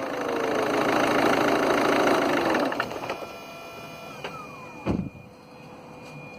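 Ford C-Max 1.6 TDCi turbocharger whining as it spins down, the tone falling steadily in pitch over the first few seconds and then fading out, with a thump near five seconds in. The noise is one the owner fears means the turbo is failing, though its shaft shows no play.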